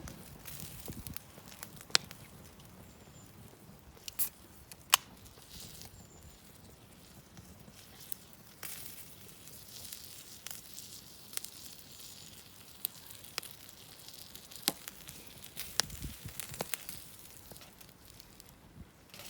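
Wood campfire burning with a faint hiss and scattered sharp pops and crackles, a few louder snaps among them.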